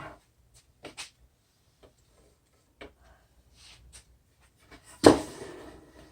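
Workshop handling noises from parts and tools on a miter saw fence: a few light, scattered clicks and taps, then one louder knock about five seconds in that fades out over about a second.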